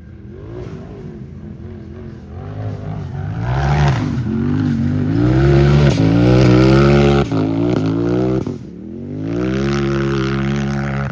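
Unlimited-class race UTV's engine revving hard under throttle, its pitch climbing and dropping several times and loudest in the middle. It cuts back sharply about eight and a half seconds in, then climbs again.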